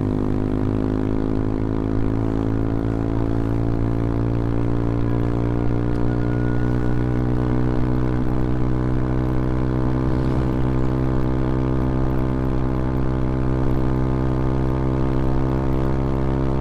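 CFMoto Papio XO-1's small single-cylinder engine running steadily while riding, its pitch rising slowly as the revs build.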